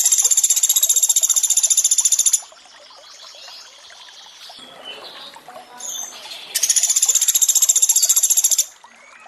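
Sunda pygmy woodpecker (pelatuk beras) giving a rapid, high rattling trill of about two seconds, then a second one after a pause of about four seconds, over a softer steady sound of trickling water.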